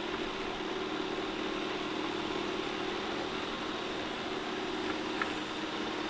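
Shark IQ robot vacuum running steadily, its motor and brushes humming as it drives across the floor, with a faint tick about five seconds in.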